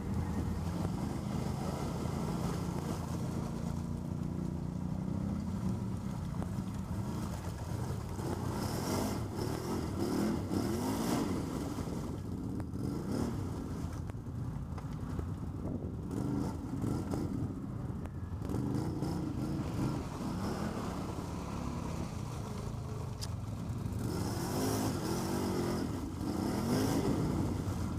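ATV engine running, revving up and down several times with rising and falling pitch.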